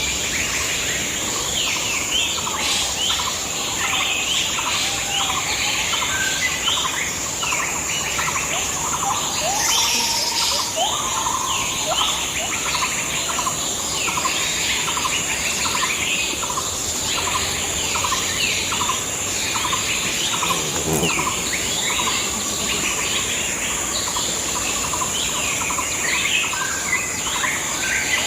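Small birds chirping over and over in quick, short notes, several calls overlapping, with a steady high-pitched whine running underneath.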